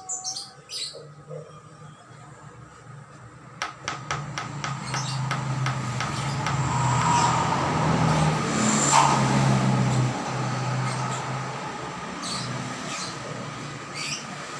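A small bird chirps in short high notes at the start and again near the end. In between, a passing motor vehicle's engine and noise swell, loudest about halfway through, then slowly fade.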